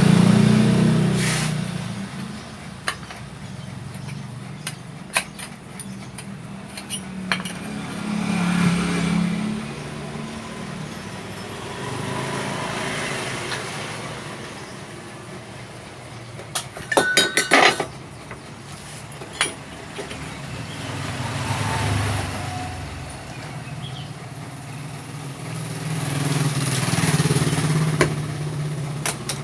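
Motorbike engines rising and falling several times, with scattered metal taps and a quick run of metal clinks about halfway through, as exhaust parts are handled.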